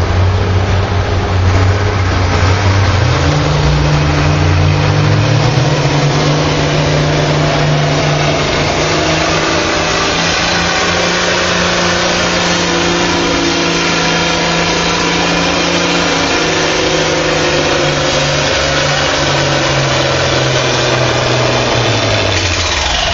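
Stock farm tractor engine under full load pulling the weighted sled down the track. It revs up a couple of seconds in, holds a steady high pitch for most of the pull, and drops back near the end.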